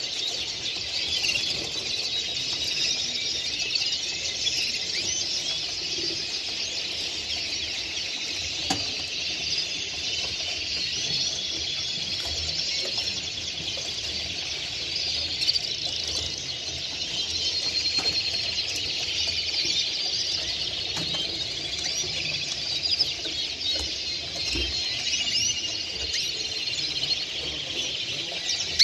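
Many caged songbirds singing at once: a dense, continuous chorus of overlapping chirps and trills.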